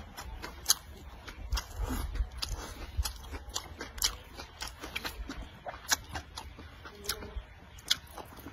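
Close-up chewing and biting of a person eating cured pork belly and leafy greens, with frequent sharp mouth clicks and smacks at an uneven pace.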